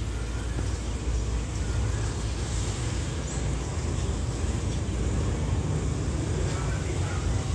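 Low, steady rumble of a distant diesel-hauled train running along the line.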